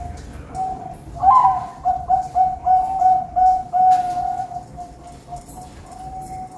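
Zebra doves (perkutut) cooing, with a run of quick repeated notes about three a second in the middle of the song.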